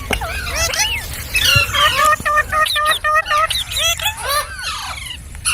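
Ringneck parrots chirping and chattering: a dense run of short, overlapping rising-and-falling calls, with a quick series of repeated notes around the middle.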